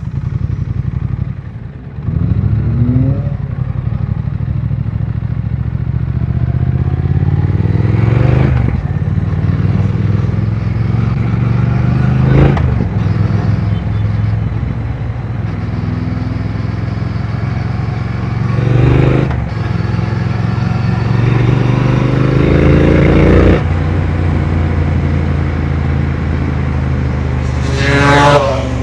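Triumph Speed Twin 1200 parallel-twin engine pulling away from a stop, then accelerating through the gears. The revs climb and drop back at each of several gear changes.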